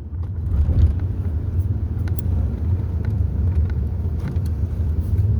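A steady low rumble with faint background noise and no speech.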